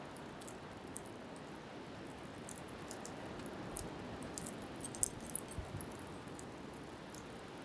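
Wood fire crackling with sharp snaps and pops, thickest in the middle and loudest about five seconds in, over a steady rush of wind and surf.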